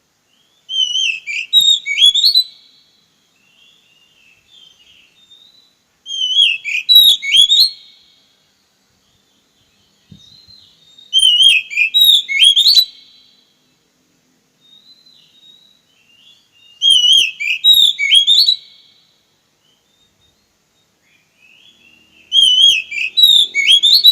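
Oriental magpie-robin (kacer) singing one short, rapidly warbling whistled phrase over and over, five times about every five and a half seconds, with soft faint notes in the gaps.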